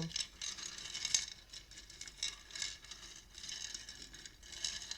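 Faint rustling with light, irregular clicks of cards being handled.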